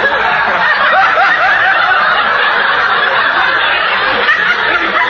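Studio audience laughing, many voices at once, loud and sustained after a gag. It is heard on a 1940s radio broadcast recording with no high end.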